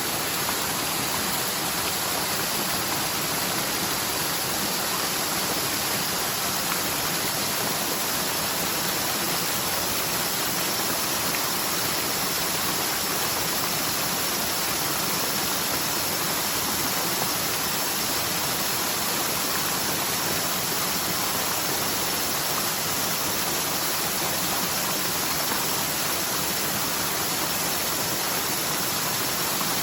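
Forest mountain stream running high after a typhoon's heavy rain, a steady rush of water down the slope from a stream bed that is normally nearly dry.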